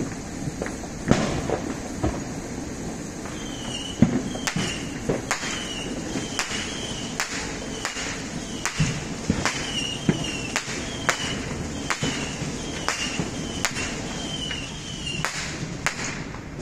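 Neighbourhood fireworks going off at a distance: an irregular run of bangs and pops, one or two a second at times, over a steady background.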